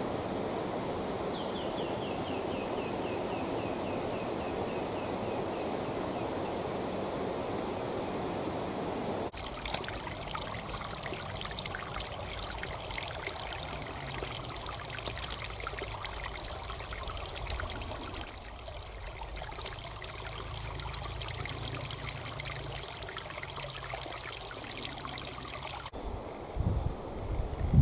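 Creek water flowing and trickling over stones. About nine seconds in the sound changes abruptly to a lighter, brighter trickle with small splashes. Near the end come a few low thumps.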